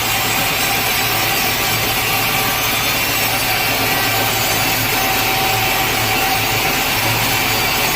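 Sawmill saw cutting through a large teak log: a loud, steady, unbroken sawing noise with a low hum underneath.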